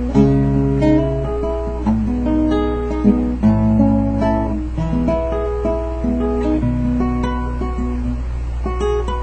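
Acoustic guitar playing the instrumental introduction of a song, with notes changing about every half second.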